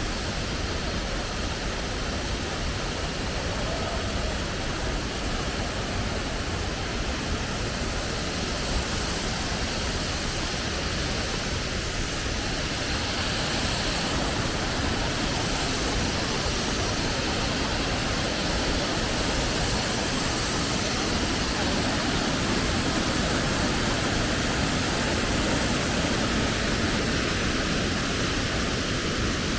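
Waterfall rushing: a steady, even noise of falling water that grows slightly louder over the last third.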